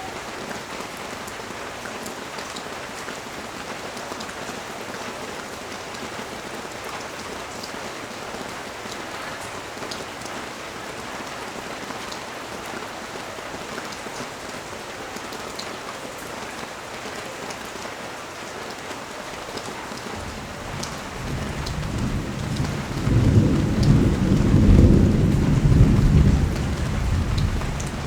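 Steady heavy rain falling, with scattered sharp drip ticks. About twenty seconds in, a low rumble of thunder builds, peaks, and dies away near the end.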